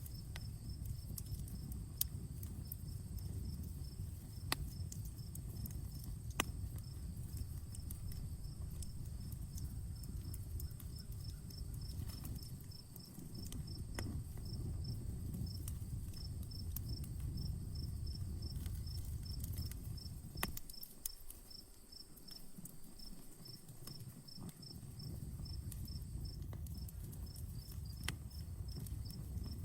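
Campfire crackling, with a few sharp pops standing out over a low steady rumble of the burning wood. Crickets chirp steadily throughout in an even high pulse, over a constant high insect drone.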